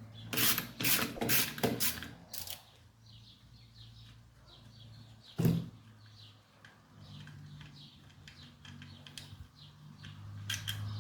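Hand tools clicking and knocking as the crankcase bolts of a Briggs & Stratton engine are undone: a quick run of clicks at first, one loud knock in the middle, then faint ticking. Under it runs the steady hum of an air compressor.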